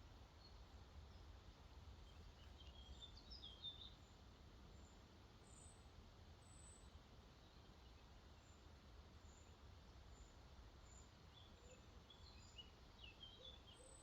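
Faint birdsong: songbirds twittering in short bursts of chirps, about three seconds in and again near the end, with faint high notes in between. Under it runs a low, steady haze of flowing water.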